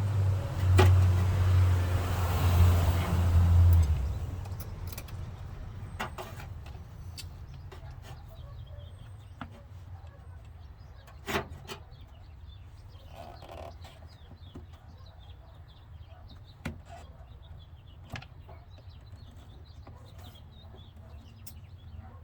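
A loud, steady low hum that drops away about four seconds in, followed by a quieter stretch with a few scattered sharp clicks and knocks.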